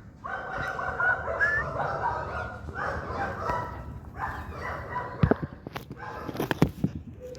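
Pet dog whining and crying in long, drawn-out pitched calls, with a few sharp knocks in the second half.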